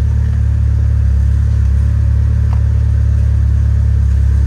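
2003 Saab 9-3's four-cylinder engine idling steadily, heard from inside the cabin, with a light click about two and a half seconds in.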